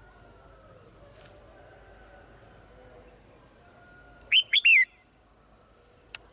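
Swallow calls: a quick run of three loud, arching chirps about four seconds in, over a faint steady high-pitched whine, with a single short click near the end.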